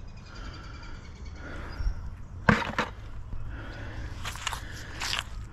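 A few sharp clicks and knocks of scrap metal being handled on a magnet-fishing magnet. There is one strong click about halfway through and a short cluster of lighter ones near the end.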